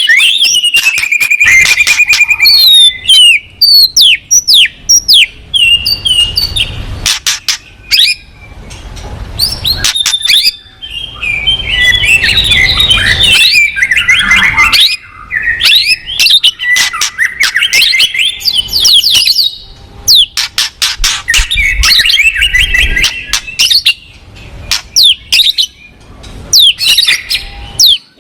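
Songbird singing a loud, fast and varied song of whistled sweeps, chirps and rapid trills, with almost no pause.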